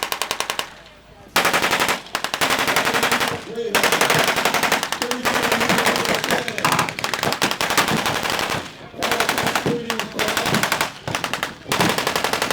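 Automatic gunfire from machine guns firing blanks in a mock WWII battle. It starts about a second and a half in and runs in long, rapid bursts with a few brief pauses.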